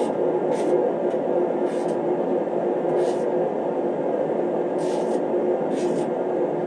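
Steady blowing of a space heater running, with a constant hum tone under it. Short hissy scrapes come through every second or so at uneven intervals.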